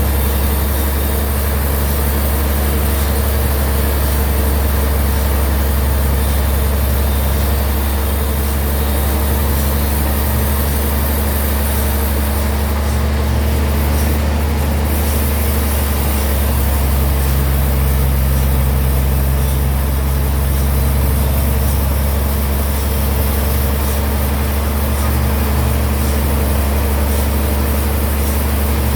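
Band sawmill running steadily, a heavy low drone with a few steady tones above it.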